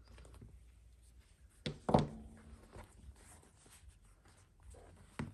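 Handling noise of a leather baseball glove being unlaced: faint rustling as a lace is worked through the web, with two knocks close together about two seconds in, the second the loudest, and a click near the end.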